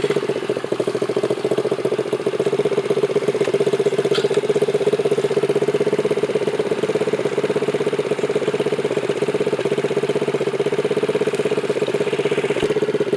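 Dirt bike engine running steadily, its pitch holding even throughout.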